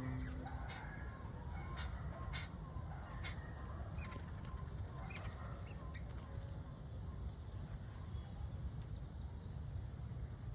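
Faint outdoor ambience: a low steady rumble with scattered short bird chirps.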